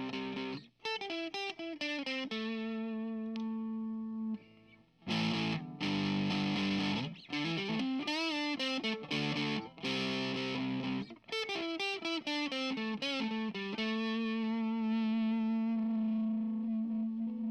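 Fano Omnis JM6 offset electric guitar played through effects pedals with distortion: strummed chords and let-ring notes, with a brief break a little past a third of the way in. About halfway in the pitch wavers, then a chord is held and rings out to the end.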